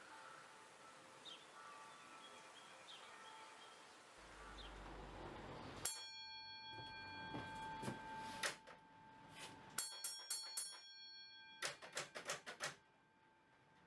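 Faint bird chirps, then from about six seconds a series of sharp metallic strikes with a ringing tone, coming singly at first and then in quick runs of five or six near the end.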